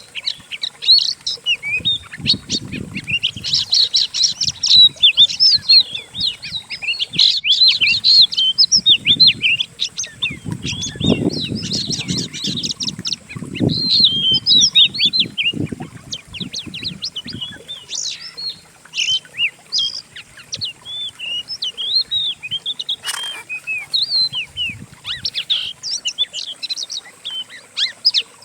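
Several songbirds' recorded songs layered together: rapid chirps, trills and sweeping whistled notes with no break. This is a masteran, a training track of mixed birdsong for Oriental magpie-robins (kacer) to copy.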